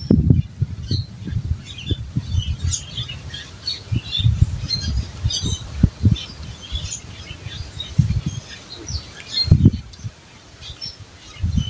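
Birds chirping in short, high notes throughout, over irregular low dull thumps, the strongest a little before the end.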